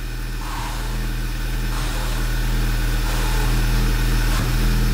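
2011 Volkswagen Golf GTI Mk6's turbocharged 2.0-litre four-cylinder idling steadily while the steering wheel is turned from lock to lock, with a hiss that grows louder about two seconds in.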